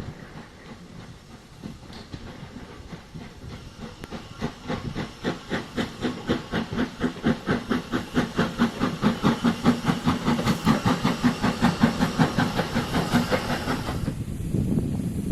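Steam locomotive working, its exhaust beats coming about four a second and growing louder as it approaches, with steam hiss; the beats stop abruptly about a second before the end.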